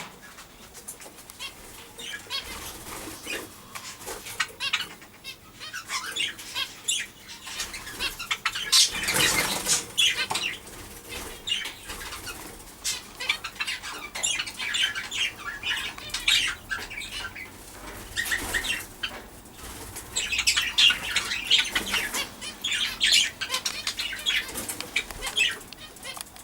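Small aviary birds fluttering and flapping their wings in the cages, in irregular flurries with some bird chatter, the busiest about a third of the way in and again near the end.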